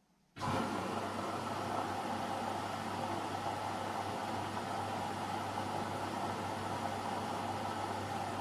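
AEG Lavamat Turbo washer-dryer running with a steady whirring hum and rush of noise, which cuts in abruptly out of near silence about a third of a second in.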